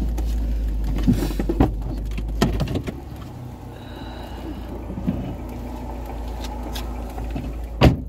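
Car engine idling, heard from inside the stationary car's cabin, with a few scattered clicks and knocks and one sharper click near the end. The low hum drops somewhat about three seconds in.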